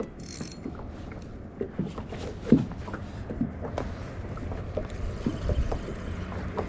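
Small fishing boat on open water: a steady low rumble of wind and water with scattered light knocks and taps on the hull and deck.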